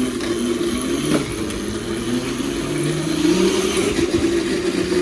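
Razor Crazy Cart electric drift kart being ridden, its electric motor whining. The pitch shifts as it speeds up and slows, and climbs about halfway through.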